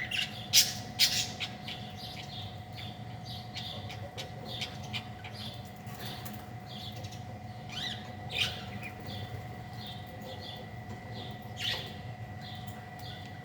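Small birds chirping and calling in quick, irregular notes, loudest in a sharp cluster about a second in, over a steady low hum with a faint constant whine.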